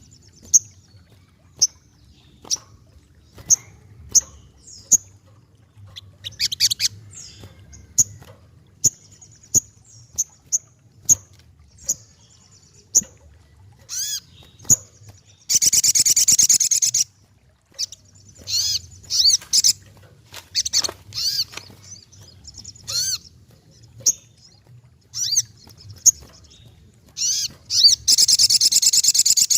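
Sogokontong songbird calling: sharp, high chirps about once a second, some sweeping up or down, broken by two loud rapid trilling bursts of a second or so, one midway and one near the end. A faint low hum runs underneath.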